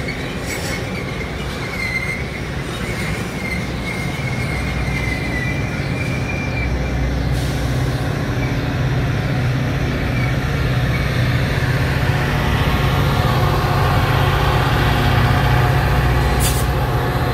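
Train passing on the track: railcar wheels squeal in a thin high tone for the first several seconds, then a low rumble grows steadily louder.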